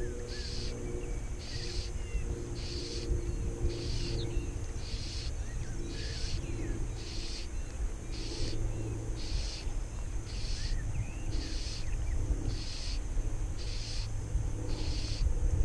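Outdoor ambience: a high, buzzy call repeats about once a second over wind rumble on the microphone, with short bird chirps in between.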